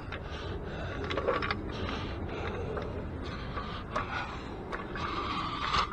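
Rattling, scraping and scattered clicks of a floor jack being moved and positioned under the car.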